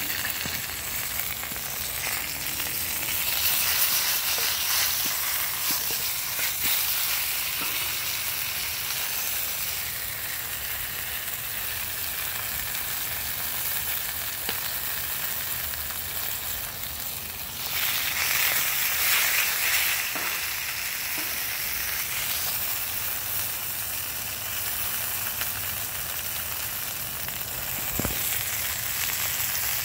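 Chicken drumsticks sizzling in hot oil in a black pan over a wood fire: a steady frying hiss that swells louder twice. A single sharp click comes near the end.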